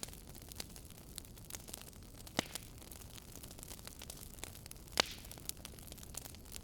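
Wood fire in a fireplace crackling: a soft steady hiss of burning with scattered sharp pops and snaps, two louder pops about two and a half and five seconds in.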